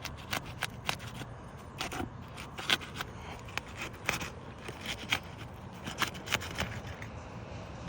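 Asphalt roof shingles being worked loose by hand or with a flat bar: irregular crackles, clicks and scrapes as the tabs are lifted and the seal strip breaks free.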